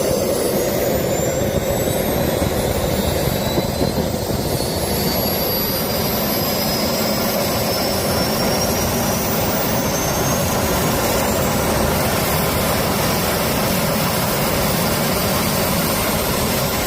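Jet engine running with a steady loud rush and a high whine that climbs slowly in pitch as it spools up. It is being test-run to see whether it still runs properly after suspected crash damage.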